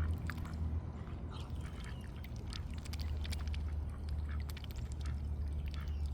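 Ducks quacking as they gather for thrown bread, with many short, scattered calls and clicks over a steady low rumble.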